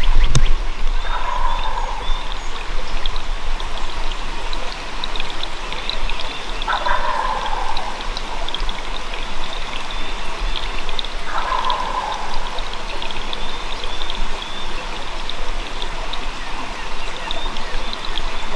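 A wild turkey gobbler gobbling three times, each gobble a rattling call of about a second, roughly five seconds apart, over a steady rushing noise. Faint small-bird chirps sound in the background.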